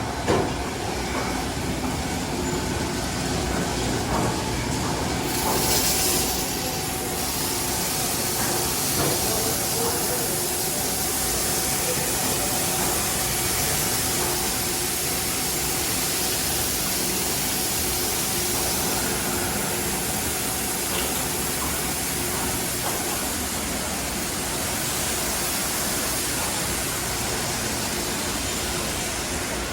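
Automatic tunnel car wash equipment running empty: a steady mechanical hum of pumps and motors under hissing water spray. A louder burst of spray comes in about five to six seconds in.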